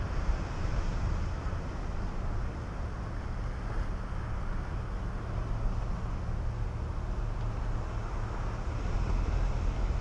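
Ocean surf washing over rocks, with wind buffeting the microphone in a steady low rumble.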